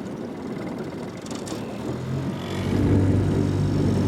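Small boat's outboard motor running, then speeding up and getting louder about two-thirds of the way through into a steady low drone.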